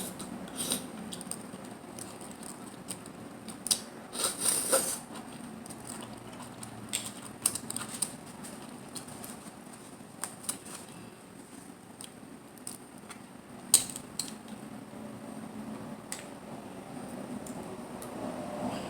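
Close-miked eating of mussels and clams: scattered small clicks and clinks of shells with chewing and mouth sounds. There is a busier crackly stretch about four to five seconds in, and one sharp click near the end.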